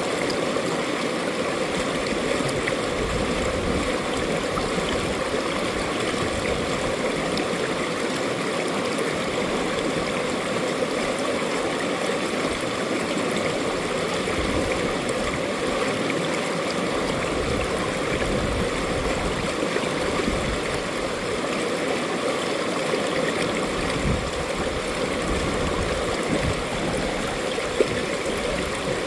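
Mountain valley stream flowing steadily, a continuous even rush of water, with one brief sharp tick near the end.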